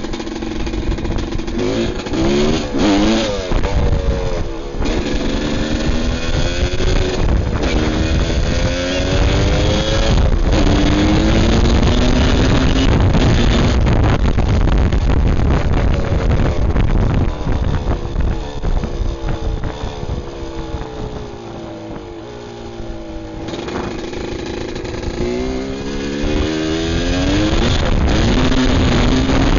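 250 cc motocross bike ridden hard, the engine revving up and dropping back again and again through gear changes. Near the last third it winds down and quietens briefly, then accelerates again.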